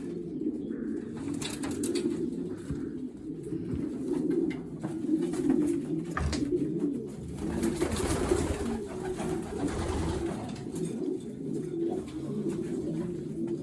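Many racing pigeons cooing continuously in a loft. A few seconds of rustling noise rise over the cooing about seven seconds in.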